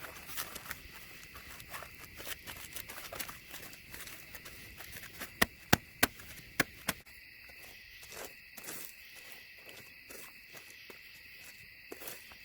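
Insects chirring steadily in a high, unbroken band, with scattered small clicks and a quick run of four sharp knocks about halfway through.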